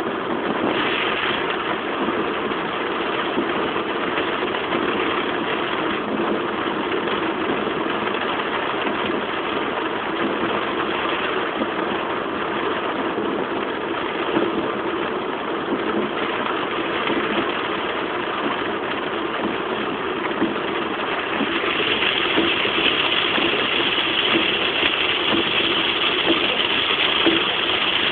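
Car driving in heavy rain: a steady hiss of rain and wet road noise over a low engine hum. The hiss grows louder about three-quarters of the way through.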